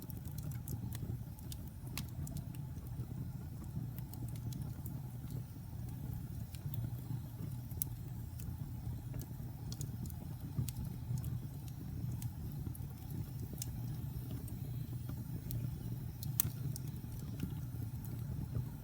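Wood logs burning in a fireplace: a steady low rumble of the flames with scattered crackles and sharp pops, the loudest pop about 16 seconds in.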